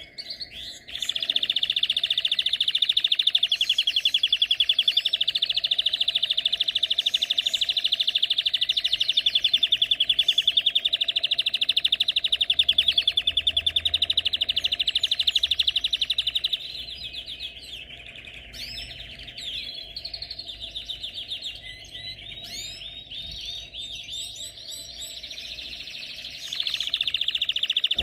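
Canary singing: a loud, fast, even trill held for about fifteen seconds, then a stretch of softer, varied chirps and notes, and the loud trill starts again near the end.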